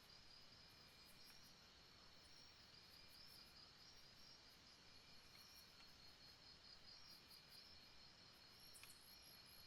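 Faint night insect chorus, crickets trilling steadily with quick pulsing chirps higher up, over a soft hiss; a single short chirp or click stands out near the end.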